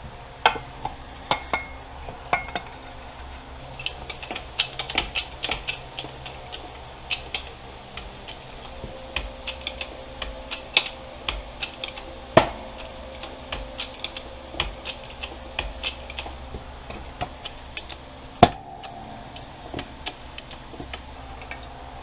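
Metal clinks and clatter of tools and bearing parts being handled as bearings are pressed into a snowmobile chaincase. Two sharper metallic knocks come through, one a little past halfway and one near the end.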